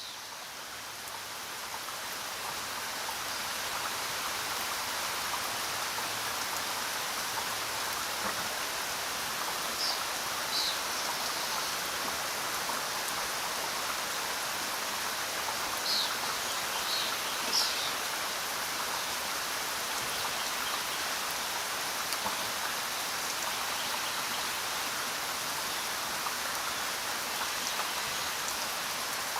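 Steady rain falling, fading in over the first few seconds. A few brief high chirps sound twice in the middle.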